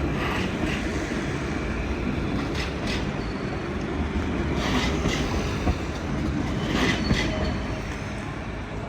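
Tram passing with a steady low rumble, its wheels clacking over rail joints in four pairs about a third of a second apart, roughly every two seconds.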